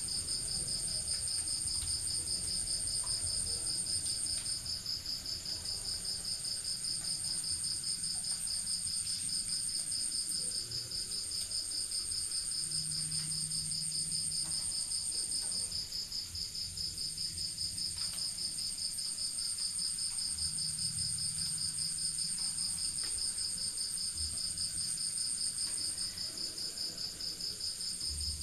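Night chorus of crickets: a steady, high, fast-pulsing trill, with a second, higher-pitched trill that breaks off and resumes every few seconds.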